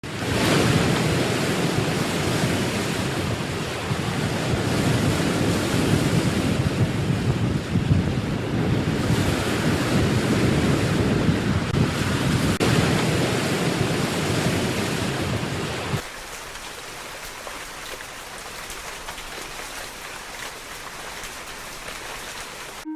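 Sea waves washing with wind rushing over the microphone, loud and surging. About 16 seconds in it cuts suddenly to a much quieter, steady hiss.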